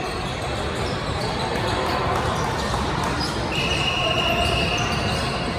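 Indoor ball-game sounds in a gym: a ball bouncing on the floor among the voices of spectators. A thin, high, steady tone runs for almost two seconds in the second half.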